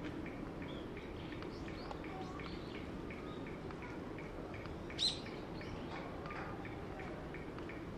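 Small birds chirping, with one short high chirp repeating about three times a second and other chirps scattered among it. A single louder, sharp call comes about five seconds in, over a steady low background rumble.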